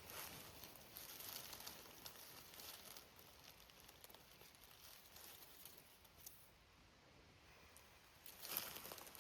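Faint rustling and crackling, scattered at first and then quieter, with a louder brief rustle near the end.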